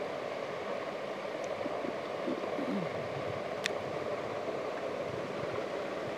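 Chicken pieces frying in hot oil in a pot, a steady sizzling hiss as the meat's water cooks off. One sharp metallic click about halfway through.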